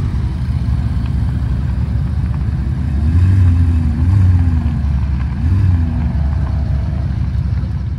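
Car engine idling close by, with three short throttle blips: about three seconds in, again a second later and again around five and a half seconds.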